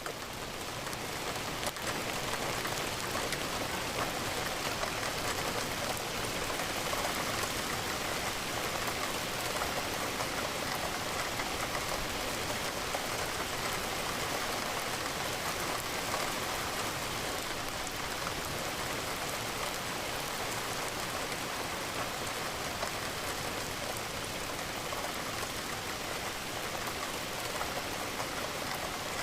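Steady rain falling against a window pane, a dense, even hiss of many raindrops. It swells back in over the first second and then holds level.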